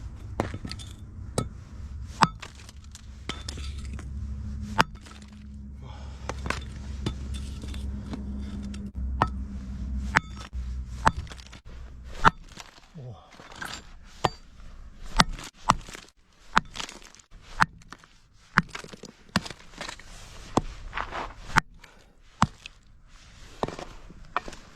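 Iron hammer smashing lumps of coal into smaller pieces: a long run of sharp, cracking blows at irregular intervals, coming about once a second in the second half. A low steady drone runs underneath during the first half.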